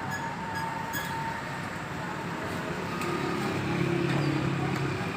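A motor vehicle engine running over a steady rumble of traffic-type noise, swelling louder about three and a half seconds in.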